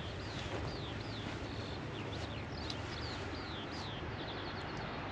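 A bird singing: a run of short whistled notes that slide downward, a couple a second, quickening into a rapid trill about four seconds in, over steady background noise.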